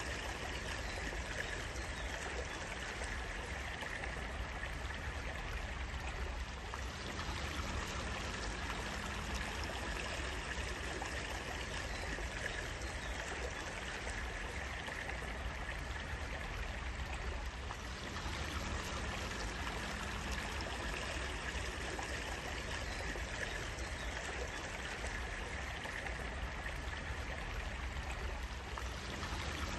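Water flowing steadily in a stream: an even, continuous rush with no breaks.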